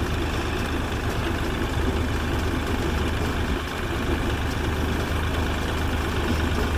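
Bobcat tractor engine running at a steady drone while mowing.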